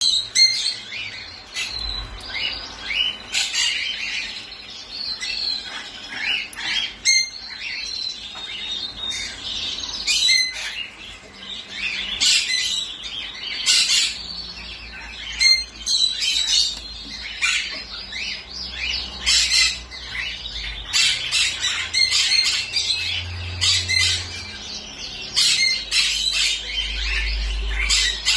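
Parrots squawking and chirping, with many short, shrill calls in quick succession.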